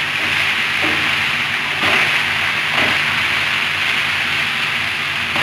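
Chopped vegetables sizzling steadily as they fry in a non-stick pan, stirred with a wooden spatula in about three strokes a second apart.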